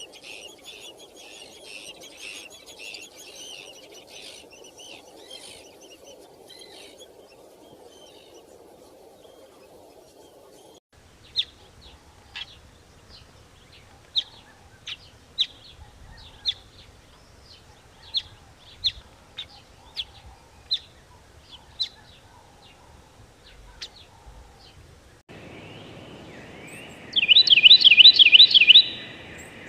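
Small birds chirping. A dense, continuous twittering runs for about the first ten seconds. Then come single sharp chirps, roughly one a second. Near the end a rapid trilled call, the loudest sound here, lasts about two seconds.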